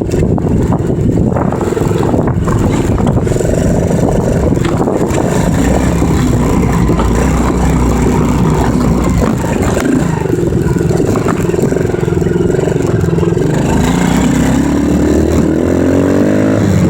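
Dirt bike engine running as it is ridden, its pitch rising and falling with the throttle and climbing steadily near the end.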